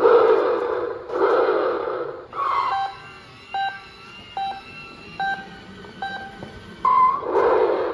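Electronic sound effects from a battery toy truck's small built-in speaker. Two short noisy revving bursts come first, then a string of short electronic beeping tones, then a rising chirp about seven seconds in, followed by another noisy burst.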